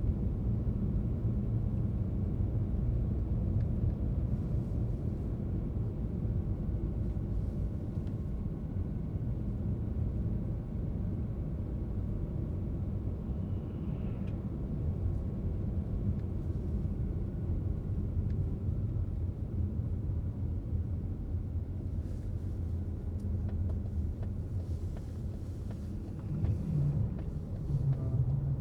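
Car driving on the road: a steady low rumble of engine and tyre noise, growing louder near the end.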